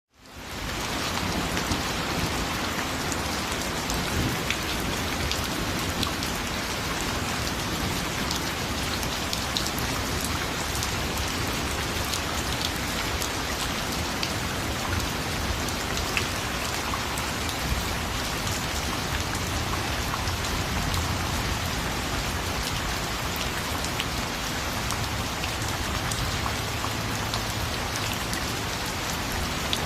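Steady, dense rainfall, with individual drops ticking on a hard surface. It fades in quickly at the very start.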